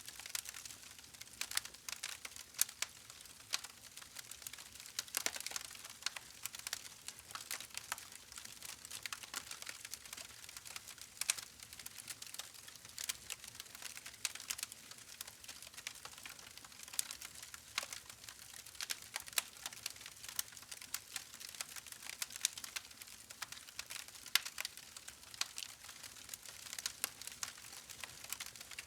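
Campfire burning: wood crackling in a dense, irregular stream of small pops, with several louder snaps scattered throughout, over a soft hiss.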